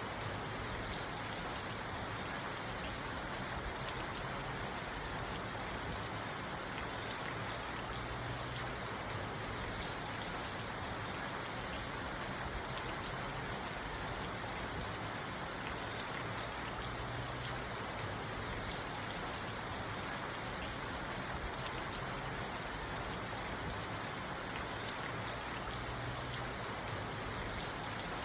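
Steady rain falling on a parked car, heard from inside the car: an even, unbroken hiss of drops on the roof and glass.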